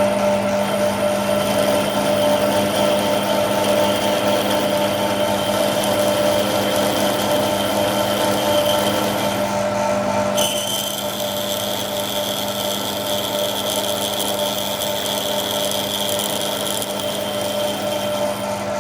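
Machine-shop power machinery running steadily with a high whine over a low hum; about ten seconds in, the whine shifts slightly lower and a brighter hiss comes in.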